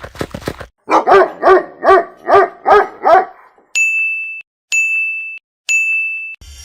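A dog barks six times in quick, even succession. Three steady, high-pitched electronic beeps follow.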